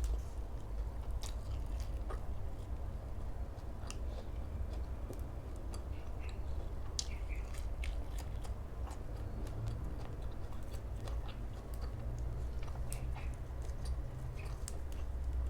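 A person chewing and biting food close to the microphone, with many short crunchy clicks over a steady low hum.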